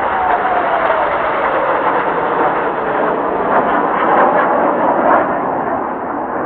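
Jet noise from Kawasaki T-4 trainers' twin turbofan engines as the aircraft fly past, loud and steady, with an engine whine falling in pitch over the first three seconds as they pass.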